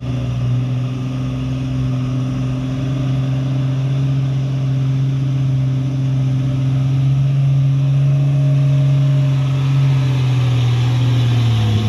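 Truck engine running steadily at constant revs as a steady drone, its pitch sagging a little near the end.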